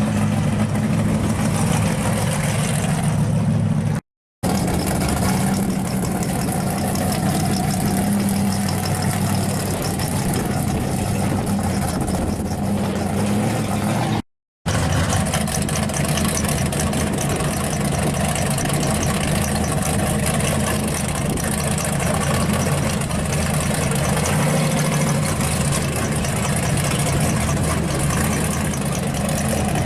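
Pro street 1986 Monte Carlo SS engine idling steadily, broken by two short silent gaps, one about 4 seconds in and one about 14 seconds in.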